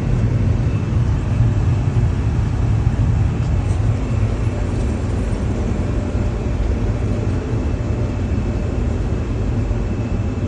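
A steady, loud low rumble of running machinery with a faint steady high whine over it, unchanging throughout.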